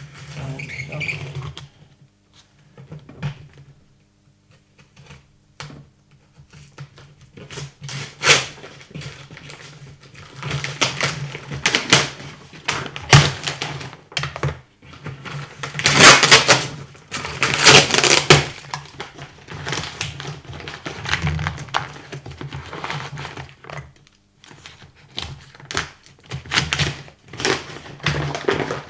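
Cardboard shipping box of a robot vacuum being handled and opened by hand: irregular knocks, clicks and scraping, with two louder drawn-out scraping noises about two-thirds of the way through.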